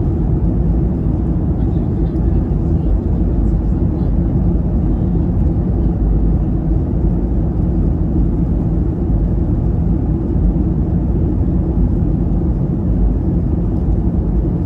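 Steady low rumble and rush of an airliner cabin in flight: engine and airflow noise that holds level throughout.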